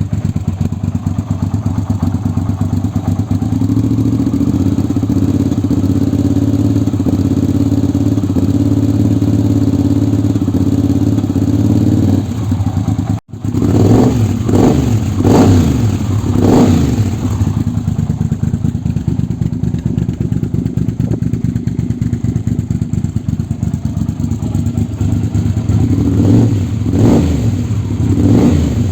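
Yamaha TRX850's 270-degree parallel-twin engine breathing through an aftermarket Delkevic exhaust, idling steadily. Just after a momentary break in the sound it is blipped with three quick throttle revs, then idles again before more revs near the end.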